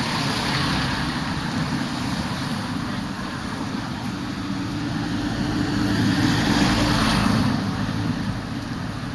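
Road traffic going by on a city street: a steady rumble of passing vehicles, swelling as one passes close about six to seven seconds in.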